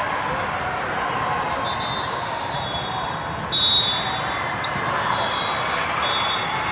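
Indoor volleyball in a gym: athletic shoes squeaking on the hardwood court over steady spectator chatter, with one louder squeak a little past halfway.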